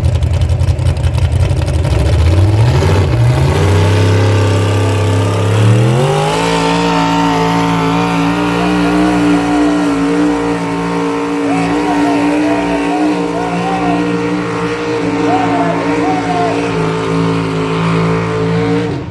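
Engine of a competition puller hauling the weight sled. It starts with a deep pulsing rumble, and its revs climb in steps about three seconds in and again around six seconds. From there it holds a steady high pitch under full load until it drops off near the end.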